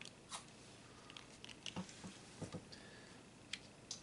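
Faint, scattered clicks and taps of small metal parts and hand tools being handled during the teardown of a throttle body.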